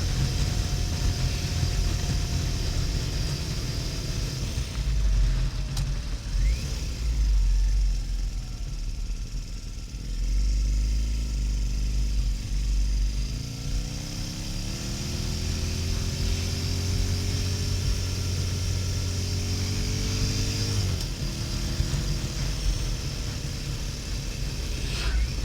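Harley-Davidson XL1200N's air-cooled V-twin under way, with wind hiss across the mic. The engine note falls over the first few seconds as the bike slows, then climbs steadily as it accelerates, drops abruptly about three quarters of the way through at a gear change, and runs on steadily.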